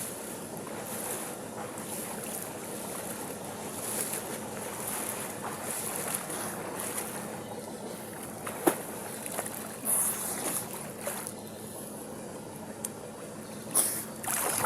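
Water splashing and churning as a person swims a stroke, with a few sharper, louder splashes in the second half.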